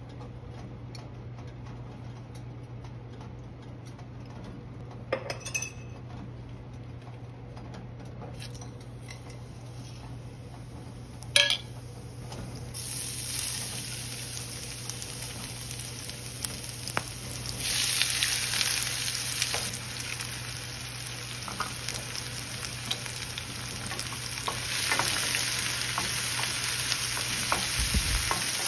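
Oil with whole spices, then chopped onions, sizzling in a stainless steel frying pan, the hiss starting about a third of the way in and growing louder twice as more goes into the pan. A wooden spatula stirs the pan near the end, over a steady low hum, and there is a sharp clink against the pan about eleven seconds in.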